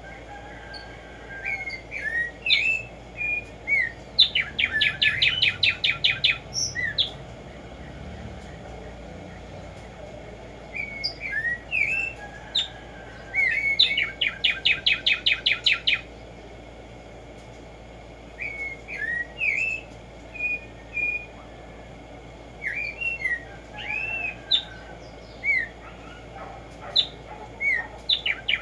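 Black-striped sparrow (Tumba Yegua) singing: a few short, separate slurred notes that run into a fast, even trill lasting about two seconds. The song comes three times, about every ten seconds, and the last one is cut off at the end.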